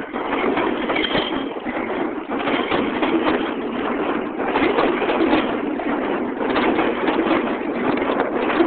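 Alstom R160A New York City subway train running through the station: a steady rumble with rapid wheel clacks over the rail joints.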